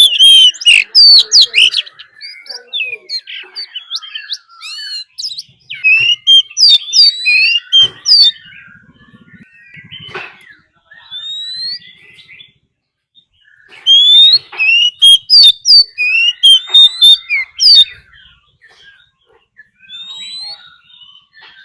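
Oriental magpie-robin contest song, a lure recording meant to excite wild birds. It comes in loud bursts of quick, varied whistled notes sliding up and down: one at the start, one midway, and a longer one towards the end. Quieter scattered notes fill the gaps.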